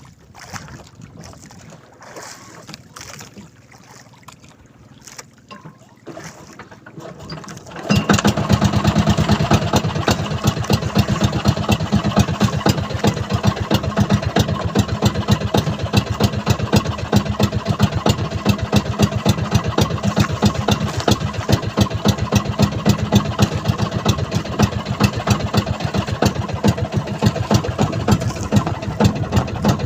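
A small fishing boat's engine starts about eight seconds in, after a stretch of low handling noise, and then runs with a fast, even chugging beat.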